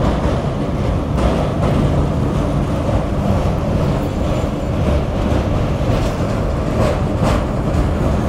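Metre-gauge passenger train running along the track with a steady loud rumble, with two pairs of sharp clacks, one about a second in and one near the end.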